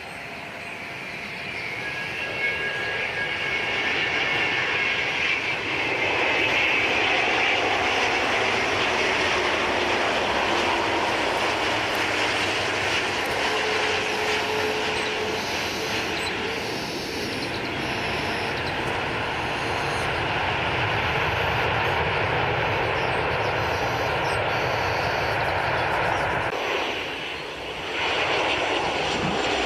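Airliner engines growing louder over the first few seconds, then a loud, steady engine noise with a faint whine, dipping briefly near the end.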